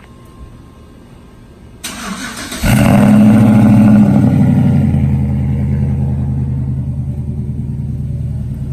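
Pickup truck's 5.3-litre V8 being started: the starter cranks briefly about two seconds in, the engine catches less than a second later, and it settles into a loud fast idle that slowly drops.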